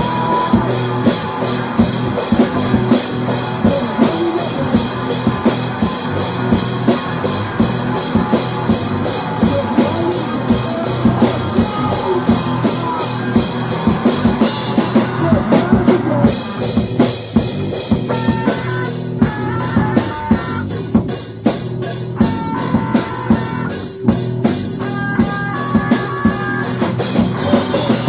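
Rock music played by a band, an instrumental passage driven by a drum kit. About halfway through, the cymbals drop out for a moment, and a higher melody line of short stepped notes carries the second half.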